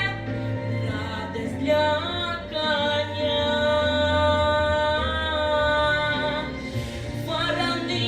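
Song music: long notes held for several seconds each over a steady low accompaniment, most likely a singing voice drawing out the song's last phrases.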